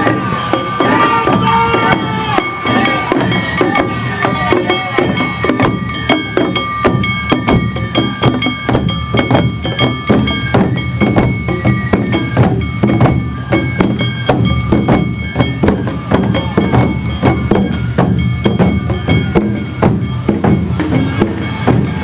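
Awa Odori festival music played live: drums and a hand bell strike a fast, steady beat while a bamboo flute holds long high notes over it.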